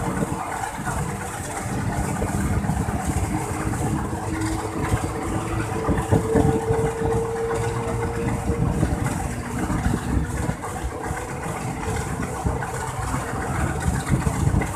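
Passenger train running: a steady mechanical rumble with a faint whining tone that rises and fades around the middle.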